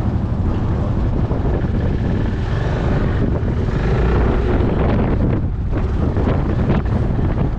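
Strong wind buffeting the microphone with a heavy low rumble, over the Yamaha Majesty 400 scooter's single-cylinder engine running.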